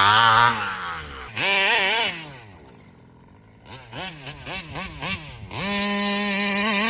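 Taylor 35 cc reed-valve two-stroke engine in a large-scale RC car, revving hard. It is at high revs at first and eases off within the first second, gives a short burst, drops back near idle, then blips about six times in quick succession before holding high revs again near the end.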